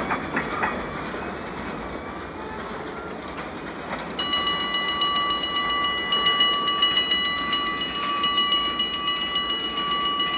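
Cars of the Portland-to-Rumford (PORU) train rolling through a grade crossing, the wheels rumbling and clacking over the rails. From about four seconds in, a steady high-pitched ringing tone with a fast regular pulse joins in.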